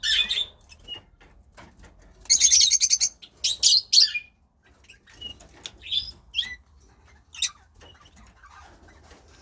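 Lovebirds calling in a cage: scattered short, high chirps, with a loud burst of rapid, shrill chattering a little over two seconds in and a few more sharp calls just after it.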